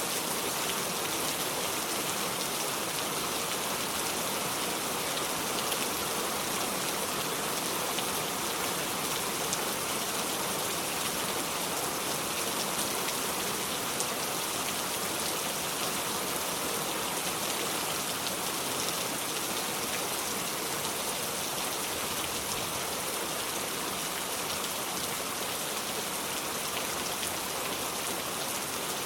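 Steady heavy rain, a dense even hiss with fine scattered drop ticks and no thunder.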